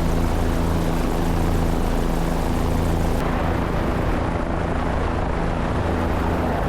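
Helicopter in flight, its rotor and turbine engine running steadily with an even low hum.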